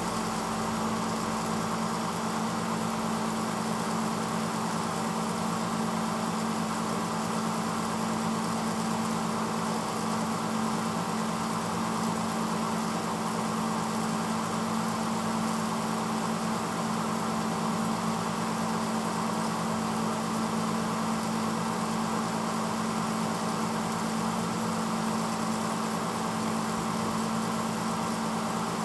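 1986 Hotpoint Potwasher dishwasher running mid-cycle: a steady motor hum under a constant rushing noise, with no change throughout.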